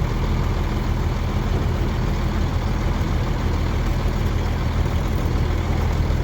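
Several off-road vehicle engines idling together in a steady low drone.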